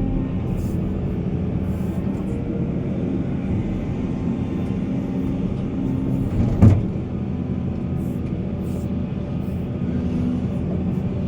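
Heavy diesel earthmoving machinery running steadily under load, with one loud thud about two-thirds of the way through.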